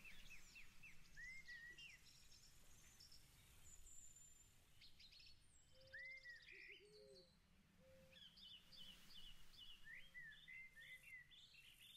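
Near silence with faint birdsong: scattered high chirps throughout, and a few lower repeated calls in the middle.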